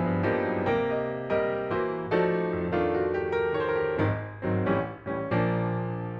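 Background piano music: a slow run of single struck notes and chords, each ringing and decaying before the next.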